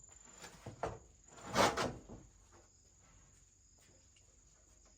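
A thin, steady high-pitched insect trill, with a few short noisy scuffs in the first two seconds, the loudest about one and a half seconds in.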